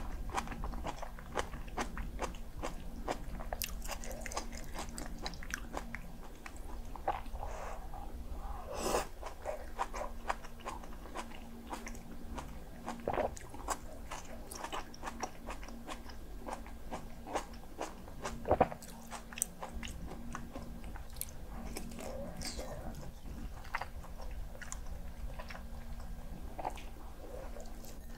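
Close-miked eating sounds: chewing and crunching mouthfuls of kimchi jjigae with aged kimchi, many short wet mouth clicks, a few louder crunches, and a faint steady low hum beneath.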